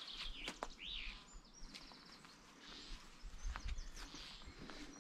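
Small birds chirping and trilling in short high phrases, with a few sharp clicks and a low rumble of wind on the microphone.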